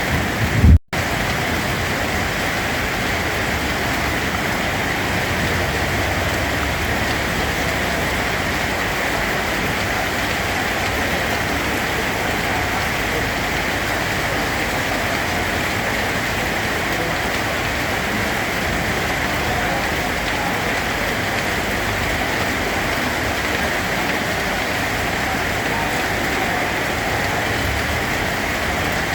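Steady, even rainfall. Under a second in there is a brief low thump and a split-second gap in the sound, then the rain runs on unchanged.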